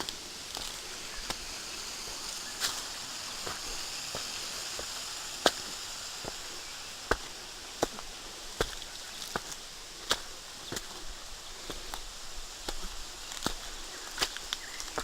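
Footsteps on dry rock: sharp, irregular clicks and knocks, roughly one every half second to a second, over a steady high hiss.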